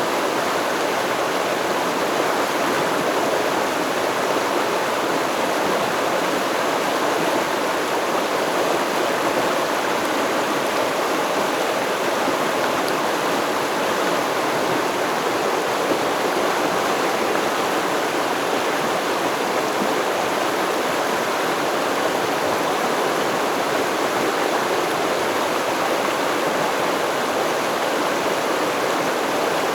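Stream water flowing steadily: an even, continuous rush with no breaks.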